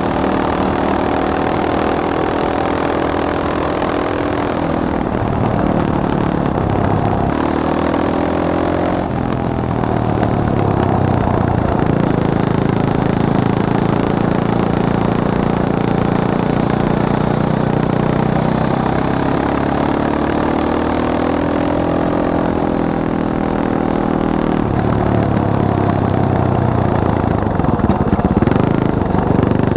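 Caballero 500 Flat Track motorcycle's single-cylinder engine running, its pitch falling and rising several times as the revs drop and pick up again.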